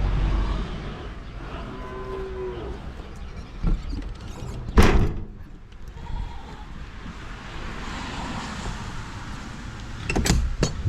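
Cattle mooing: one short call about two seconds in and a fainter one around six seconds, with a single loud knock near the middle and a few sharp clicks near the end.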